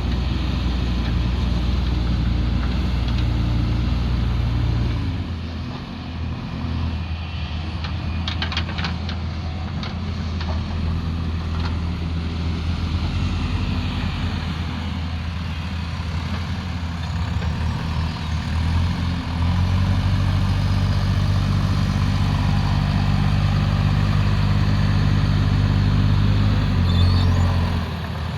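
Diesel engine of a heavy earthmoving machine running. It drops in revs about five seconds in, revs up again about two-thirds of the way through, and eases off near the end. A short cluster of knocks comes about eight seconds in.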